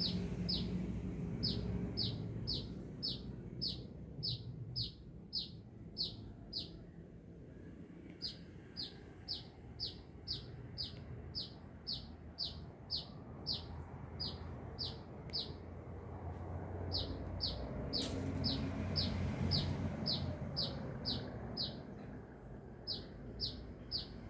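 A sunbird calls a long rapid series of short, high, downward-sliding notes, about two to three a second, in runs broken by brief pauses, over a low background rumble.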